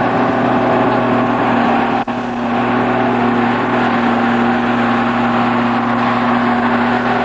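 Royal Enfield Bullet single-cylinder motorcycle engines idling steadily together, with a brief break in the sound about two seconds in.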